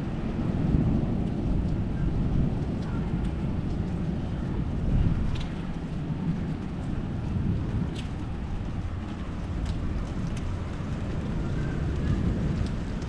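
Thunderstorm ambience: a steady low rumble with a few sharp ticks scattered through it.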